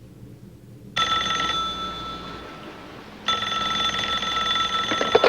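Telephone bell ringing twice, each ring about two seconds long with a short gap between. A few sharp clicks come just before the second ring stops.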